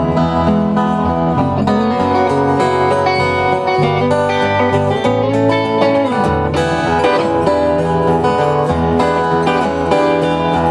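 Live country band playing an instrumental passage without vocals: plucked acoustic guitar and other strings over changing bass notes.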